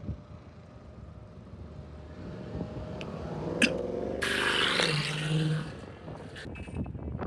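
A car accelerating past with its engine revving. The engine rises in pitch and loudness, peaks with a loud rushing noise from about four to five and a half seconds in, then fades away.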